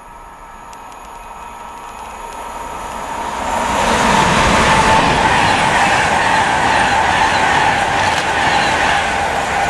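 Virgin Trains Class 390 Pendolino electric express passing through at speed. Its noise builds over the first three seconds and turns loud at about three and a half seconds as the train runs past close by. A steady high whine runs through the rush of the train.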